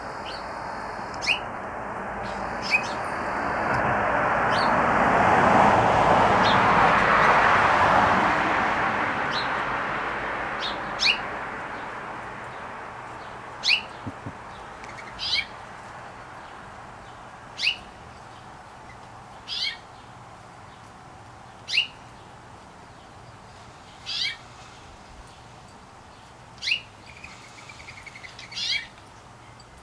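A songbird giving a single sharp, downward-sliding chirp about every two seconds. A broad rushing noise swells up over the first few seconds, is loudest for a few seconds, then fades away by about the middle.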